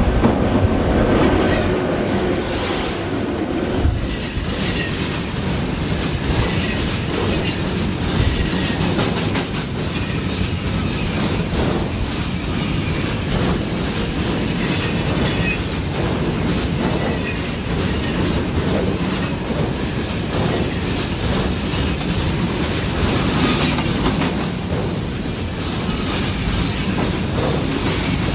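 A freight train behind a VL85 electric locomotive passing close by, its wagon wheels clacking steadily over the rail joints.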